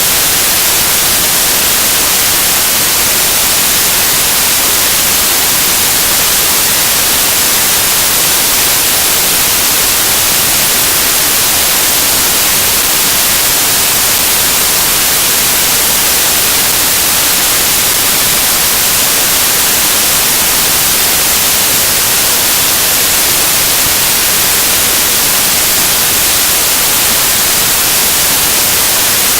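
Loud, steady static hiss like white noise, heaviest in the high end, with nothing else audible through it.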